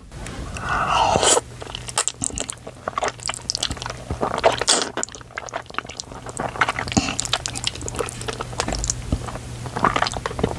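Close-miked mouth sounds of eating spicy instant ramen noodles: a noisy slurp about a second long at the start, then steady wet chewing with many small irregular smacks and clicks.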